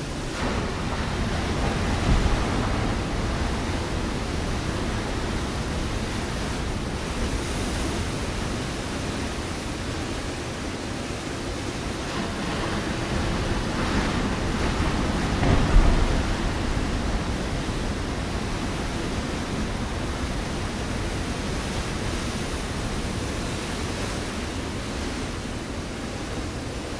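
Ocean waves breaking on a rocky shore, a continuous rushing wash that swells twice, with the louder wave crashing about two-thirds of the way through.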